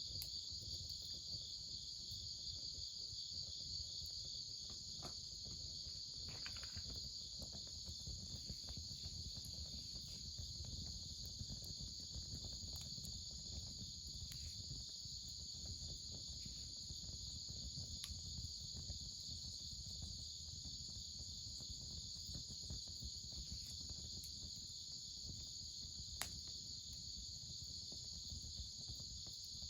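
Crickets chirping in a steady high chorus, with small crackles underneath and one sharp pop about three-quarters of the way through, as from a wood fire burning.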